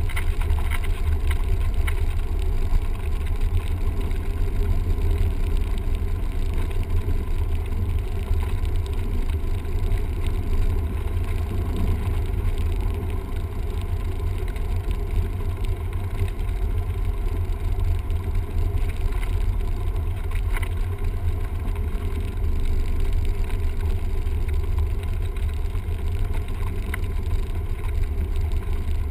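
Cessna 172M's four-cylinder Lycoming engine and propeller running steadily, a constant low drone with airflow noise and no change in power.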